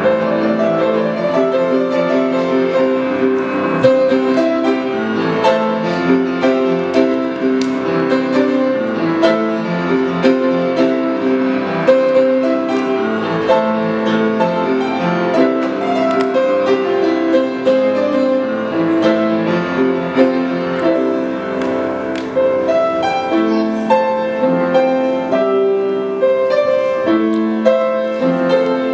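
Piano playing a continuous flow of notes and chords.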